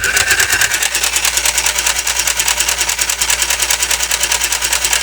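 Children's mini sewing machine running at a steady speed: its small motor drives the needle in a rapid, even chatter, started by pressing its pedal, and it stops suddenly at the end.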